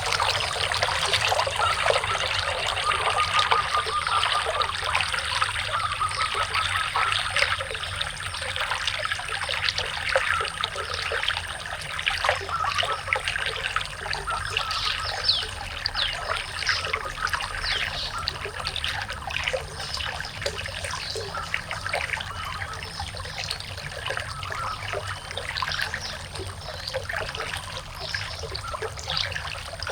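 Water trickling and splashing continuously, with a faint steady high-pitched tone above it.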